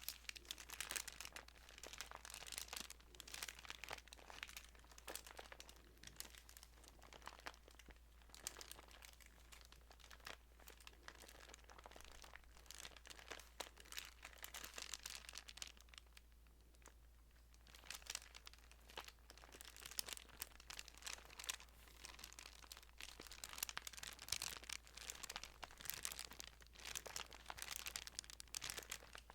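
Thin Bible pages being handled close to the microphone: soft, continuous rustling and crinkling of paper, with a brief lull about halfway through.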